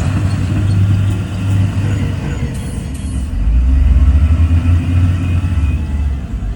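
Heavy diesel engine of earthmoving machinery running and working; its note drops lower and gets louder about three seconds in, just after two short high hisses.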